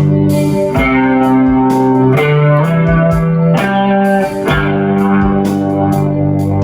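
PRS Custom 24 electric guitar through a Two Rock Vintage Deluxe amp with Echo Fix EF-X3 chorus and long delay, playing sustained chords and notes that change about every second. Short regular hits run behind it.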